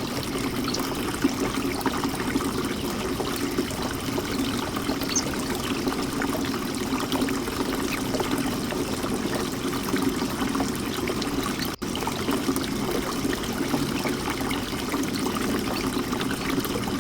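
Birdbath fountain water trickling and splashing steadily, with a brief dropout about twelve seconds in.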